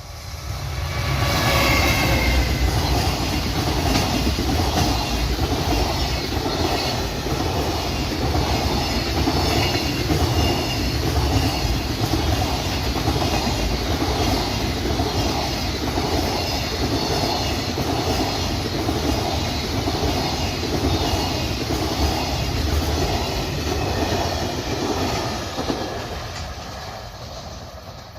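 Freight train passing close by: a loud, steady rumble with a regular clatter of wheels over rail joints. It builds up within the first couple of seconds and fades away near the end.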